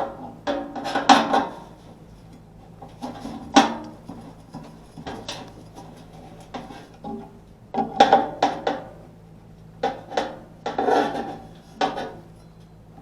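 Clinks, knocks and scraping of hand tools and metal parts being handled, in scattered bursts, over a steady low hum.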